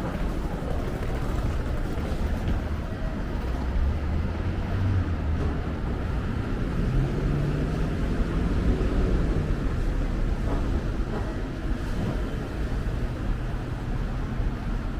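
City traffic: a steady low rumble of vehicles passing, with one engine note rising and then falling about halfway through.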